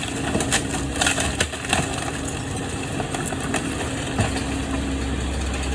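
An engine running steadily with a low hum, with scattered light clicks and knocks over it; a deeper rumble comes in about four seconds in.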